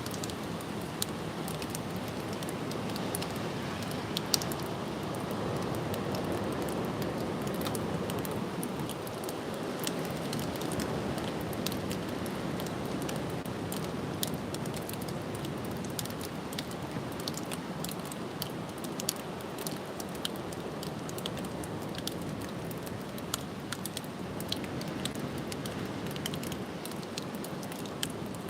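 Strong gusty wind rushing, swelling for several seconds a few seconds in, with many scattered sharp ticks and patters throughout.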